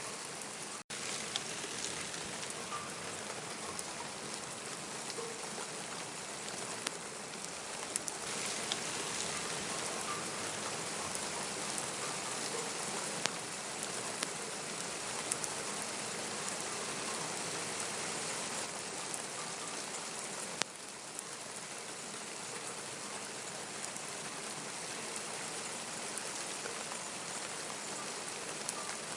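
Steady rain falling, with scattered sharper drops. There is a momentary dropout about a second in.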